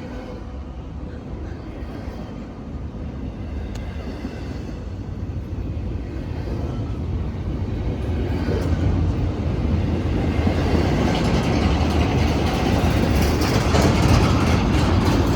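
BNSF freight train of empty intermodal cars passing, its rumble and rail noise growing steadily louder.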